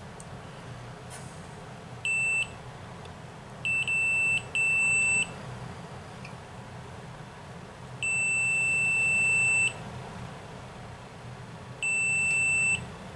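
Multimeter continuity tester beeping across the breaker points of a Tecumseh H60 engine as the stator is turned: five steady high beeps of uneven length, the longest about a second and a half, cutting in and out as the points close and open. The beep means the points are closed; where it stops, the points have opened, the moment the engine fires, which sets the ignition timing.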